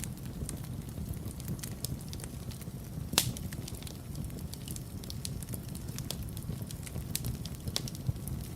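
Wood fire burning in a fireplace: a steady low rumble of flames with frequent irregular crackles and pops, one sharper, louder pop about three seconds in.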